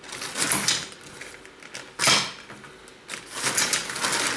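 Rustling and handling noises as belongings are moved and packed into a bag or box, in several bursts, with a sharper knock about two seconds in.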